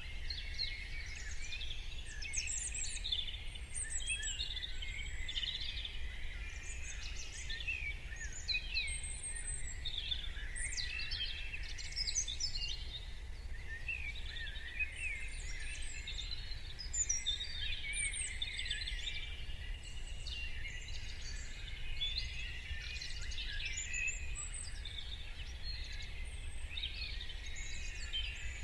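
A morning chorus of many songbirds singing and calling at once: dense, overlapping chirps, trills and quick whistled glides with no pause, over a steady low rumble.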